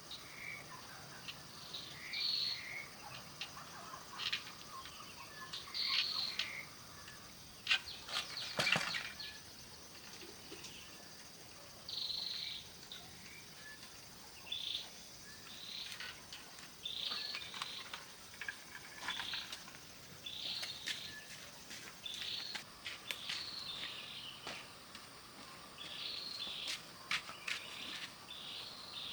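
Birds chirping outdoors in short calls every second or two, over a faint steady insect drone, with a few sharp clicks and knocks.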